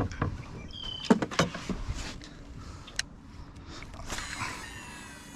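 A few knocks and clicks of fishing gear against the canoe, then from about four seconds in a fishing reel's spool whirring as line pays out on a cast, falling in pitch as it slows.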